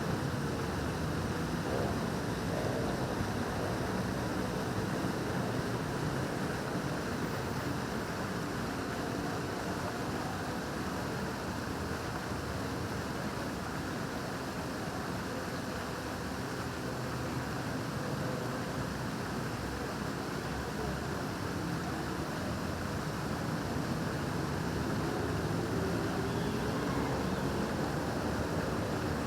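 Fountain water splashing steadily, with the faint background hubbub of a busy square mixed in.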